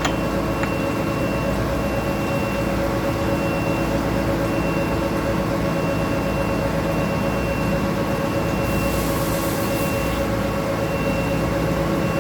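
Gear hobbing machine running steadily: a constant hum with several steady whining tones, one high tone cutting in and out. A click right at the start, and a short hiss about nine seconds in.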